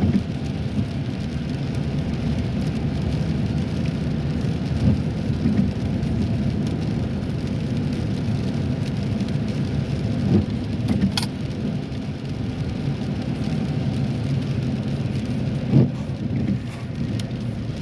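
Steady road and engine noise inside a moving car's cabin, with a few soft thumps and one sharp click about eleven seconds in.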